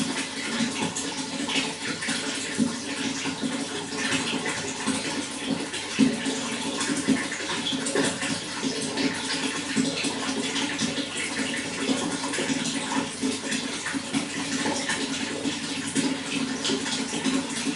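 Running water flowing and splashing steadily, a continuous babble of small splashes, with one brief louder splash about six seconds in.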